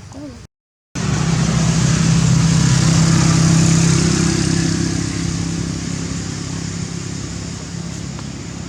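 A motor vehicle engine running steadily close by. It starts abruptly after a half-second gap, is loudest about three seconds in, then slowly fades as if passing.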